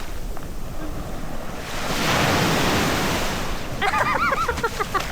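Sea waves washing onto the beach with wind buffeting the microphone, a louder surge of surf about two seconds in. A person's voice calls out near the end.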